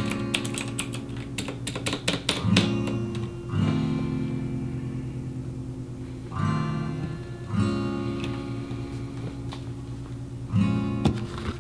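Acoustic guitar music: strummed chords, each new chord struck with a few quick strokes and then left to ring and fade.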